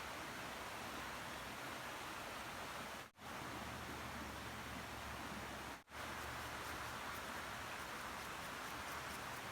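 Steady hiss of rain falling in the woods, breaking off briefly twice, about three and six seconds in.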